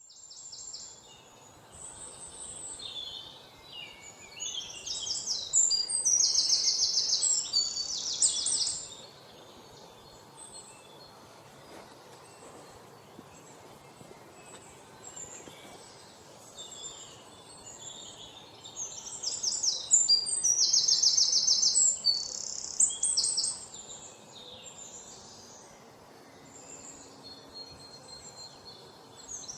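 Small birds chirping and singing, with two loud bouts of rapid, high repeated trilling notes, one about a third of the way in and another near two-thirds, and scattered quieter chirps between them.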